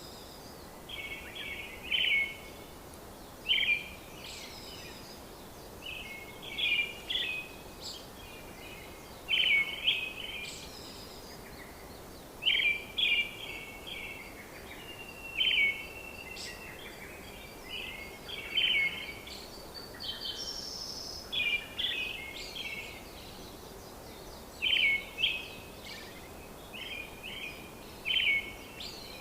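A bird singing short phrases of clustered chirps every second or two, over a steady background hiss.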